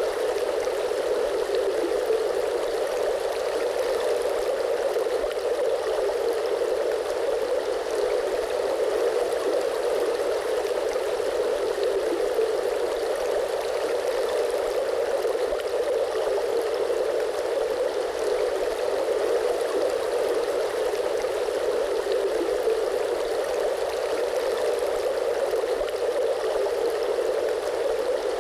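Flowing water running steadily, an even rush, fullest in its lower middle, that never breaks or changes.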